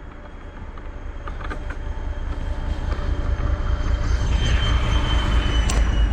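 Sport quad's single-cylinder engine under throttle, growing steadily louder over several seconds with a steady high whine above the rumble, as it tries to drive through loose snow.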